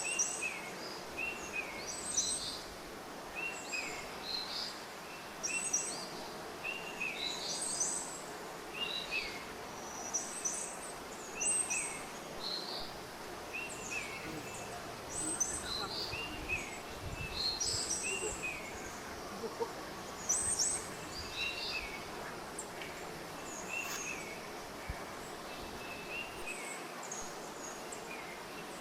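Birds chirping: short, quick calls repeated about every second over a steady background hiss of outdoor ambience.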